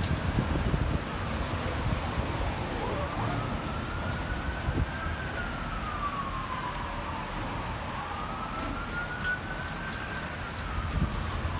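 An emergency vehicle siren wailing, slowly rising and falling about twice, over wind rumbling on the microphone.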